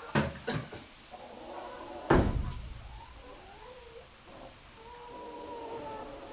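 Two sharp knocks, then a heavy thud about two seconds in as a metal waterer base heater is handled and set down on the coop floor. Chickens make drawn-out, gliding calls afterwards.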